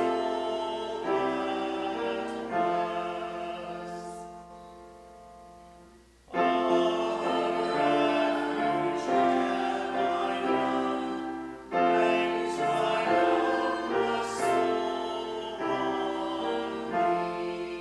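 Congregation singing a hymn with keyboard accompaniment, in held chords line by line. One line dies away about four seconds in, and new lines begin about six and twelve seconds in.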